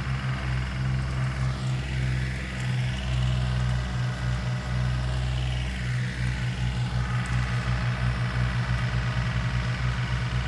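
Diesel tractor engine running with a steady low throb while hauling up a slope; its beat quickens after about six seconds.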